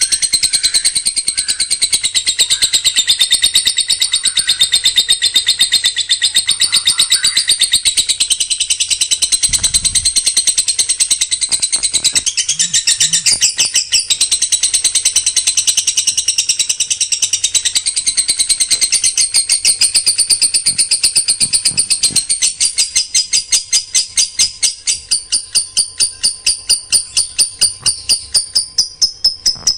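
Songbird singing a dense, rapid-fire trill of high notes repeated many times a second, the 'tembakan rapat' burst used as a training master for competition birds. After about twenty seconds the notes become more clearly separated.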